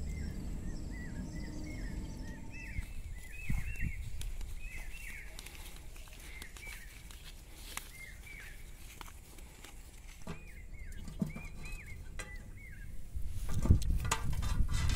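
Small birds chirping over and over in short rising-and-falling notes. Near the end, louder rustling and knocking as cooked quail are pushed off a stick onto a metal plate.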